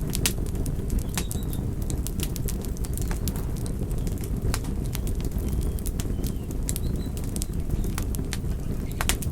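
Wood campfire crackling: irregular sharp pops and snaps over a steady low rumble of the flames, with a few faint short high chirps.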